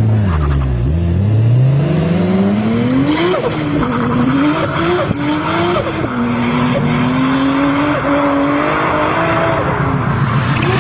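Car engine and exhaust accelerating hard. The pitch dips, then climbs steeply and drops back at each of several quick gear changes before settling at a steadier pitch.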